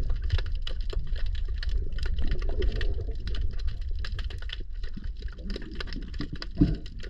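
Underwater ambience along a seawall: a dense, irregular crackle of sharp clicks over a low rumble, with a couple of bubbling gurgles, the loudest about a second before the end.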